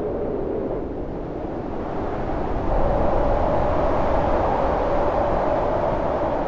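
Storm wind howling: a steady rush with a wavering hollow tone that rises in pitch and grows louder about two and a half seconds in.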